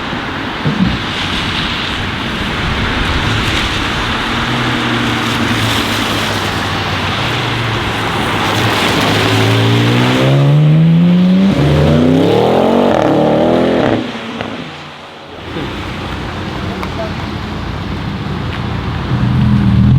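Audi RS7 C8's twin-turbo V8 running at a low burble, then accelerating hard from about eight seconds in, its note climbing steeply for several seconds before cutting off suddenly. Afterwards the low engine note picks up again.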